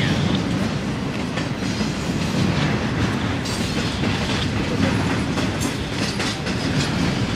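Double-stack intermodal freight train's container well cars rolling past: a steady rumble of steel wheels on rail, with irregular clicks of the wheels over the track.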